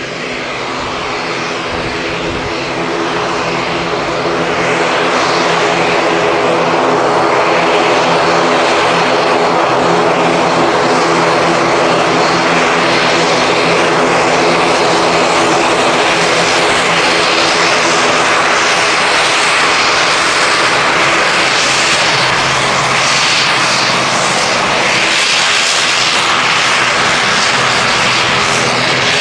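ATR42-600's Pratt & Whitney PW127M turboprop engines running with propellers turning during taxi: a steady propeller drone of several even tones over a broad engine rush. It grows louder over the first few seconds, then holds steady.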